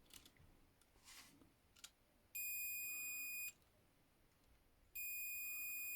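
Multimeter continuity tester beeping: a steady high beep of just over a second, then a second beep starting near the end, which signals that the switch contacts being probed make a closed circuit.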